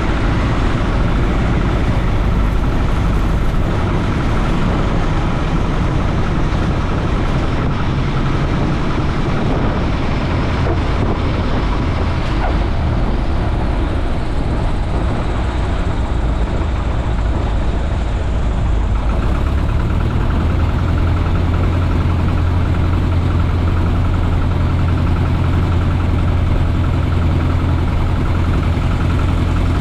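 Piper J-3 Cub's light-aircraft piston engine running steadily, heard from inside the open-framed cockpit as a loud, even drone with a low hum. About two thirds of the way through, the engine note shifts and settles into a stronger, steadier hum.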